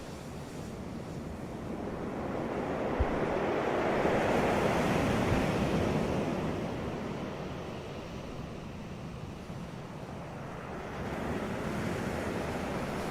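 Ocean waves breaking on a beach: one wave swells up and washes in over a few seconds, then falls back, and the next starts building near the end.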